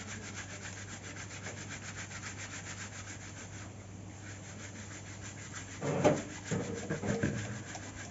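Fast, steady scrubbing strokes on a laptop power supply as it is cleaned, with a low steady hum underneath. Two louder, rougher bursts of rubbing come about six and seven seconds in.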